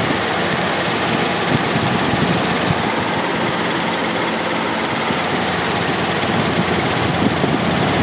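Piston-engine helicopter in steady forward flight, heard from the cockpit: a constant, loud mix of engine and rotor noise with a fast low throb.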